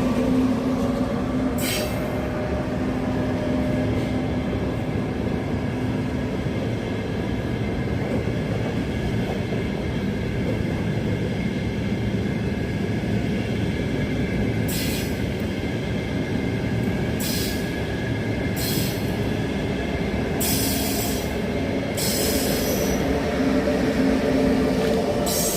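ETR500 high-speed electric train pulling away, a steady loud rumble with a held hum, joined in the second half by several brief high-pitched squeals or hisses.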